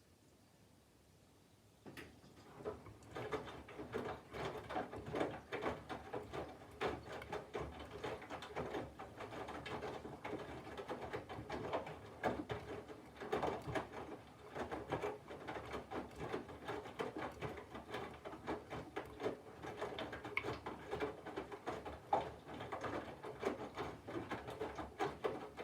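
Candy GVF4 137 LWHC/2 front-loading washing machine drum starting to turn about two seconds in: wet laundry tumbling and water sloshing in a dense, irregular patter of soft knocks, during the cold wash phase.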